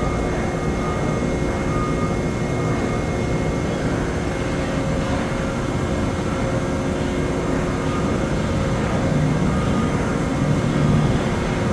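Salvagnini P4-2516 CNC panel bender running: a steady machine hum with several constant tones over a rumbling factory-floor background. A lower rumble swells briefly about nine to eleven seconds in.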